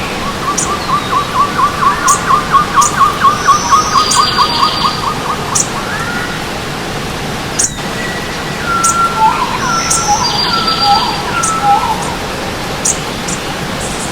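Forest birds singing over the steady rush of a running stream: one bird gives a fast run of repeated notes for the first half, then a slower phrase of separate notes follows, with short high chirps from other birds throughout.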